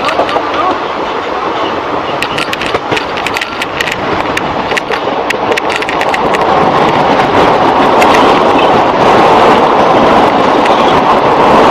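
Passenger train running along the track, heard from a coach: a steady rumble of wheels and wind with rapid clicks of the wheels over rail joints, growing louder about halfway through.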